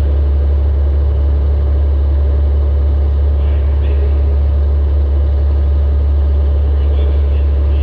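Steady low rumble of a welded compact demolition-derby car's engine running at an even speed, picked up by a GoPro mounted on the car.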